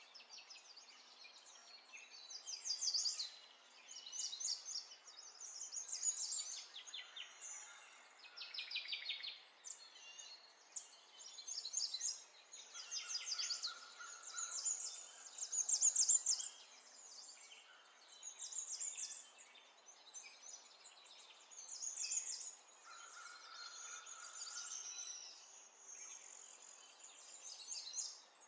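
Birds singing: bursts of high, rapid trills and chirps every second or two, some falling in pitch, over a faint steady hiss.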